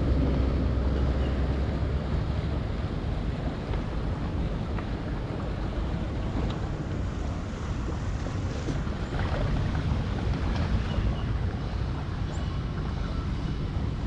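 Wind buffeting the microphone: a steady low rumble with no clear mechanical tone.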